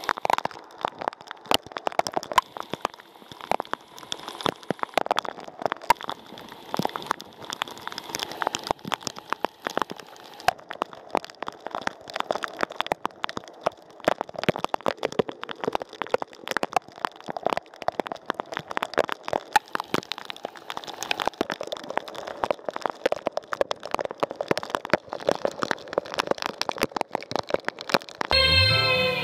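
Rain falling, its drops striking a hard surface in a dense, irregular patter of small clicks. Music with a singing voice comes in just before the end.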